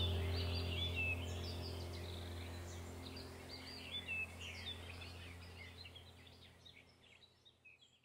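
Birds chirping and calling in quick high notes over a low steady hum, the whole sound fading out gradually toward the end.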